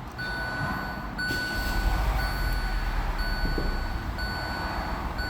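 Car dashboard warning chime sounding as a repeated electronic tone, about one pulse a second, over the low rumble of the engine, which grows stronger about a second and a half in.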